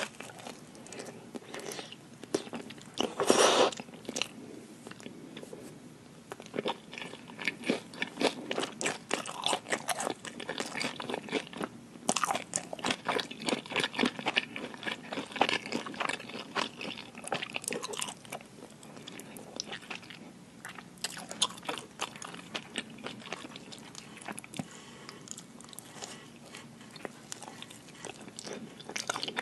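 A person biting and chewing cheesy pepperoni pizza close to an ASMR microphone: a dense run of small clicks and wet mouth sounds, with one louder burst about three seconds in.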